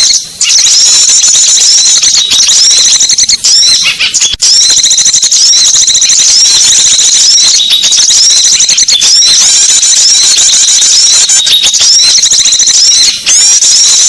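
A loud, dense, unbroken chatter of many small birds' high chirps and squeaks, a lure recording for calling in small birds. It pauses for a split second a few times.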